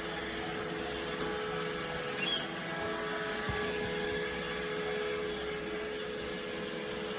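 iRobot Roomba Combo i5+ robot vacuum running, a steady whirring hum of its vacuum motor and brushes, with one short click or bump a little over two seconds in.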